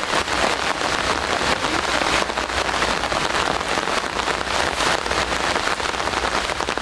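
Steady rain falling, a dense, even hiss of many small drops hitting.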